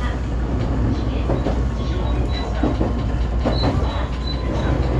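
JR West 125 series electric railcar running along the track, heard from on board: a steady low rumble of the wheels and running gear with a faint thin whine above it.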